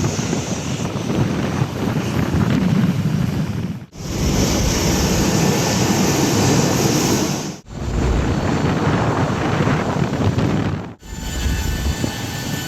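Jet aircraft noise, a steady rushing rumble, in three or four short clips cut together, with a sudden break between each.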